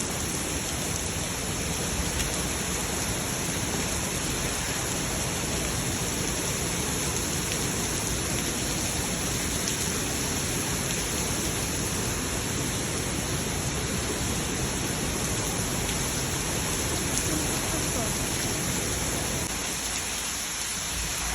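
Heavy tropical rain pouring down steadily, a continuous dense hiss.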